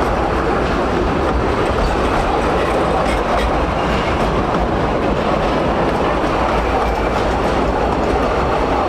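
Narrow-gauge train running along the line: a steady, loud rumble of wheels on rail with some clickety-clack, holding an even level throughout.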